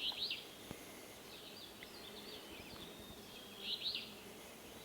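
Alder flycatcher singing its burry 'free-beer' song twice, once at the start and again near the end, over a steady outdoor hiss.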